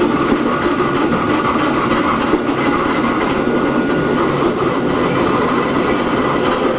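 Hakone Tozan Railway Moha 1 electric railcar No. 106, with nose-suspended drive and SE121-A traction motors, running, heard from on board: a steady rumble of wheels on rail, with a clickety-clack of rail joints.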